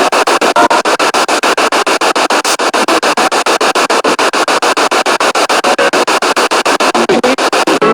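Spirit box sweeping through radio stations: loud radio static chopped into short pieces about eight times a second as it jumps channel, with brief fragments of broadcast sound poking through.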